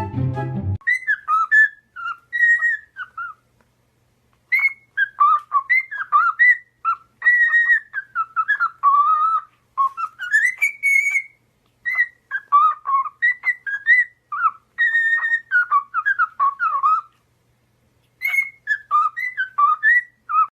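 A parrot whistling a tune in a run of phrases, clear gliding and jumping notes with short pauses between the phrases.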